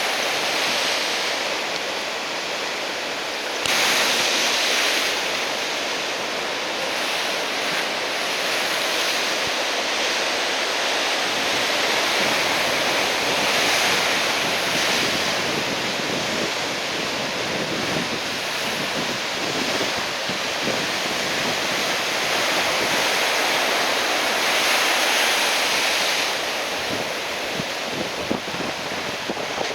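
Heavy typhoon swell breaking on the shore: a continuous rush of surf that surges louder about every ten seconds as sets of waves break, with wind buffeting the microphone.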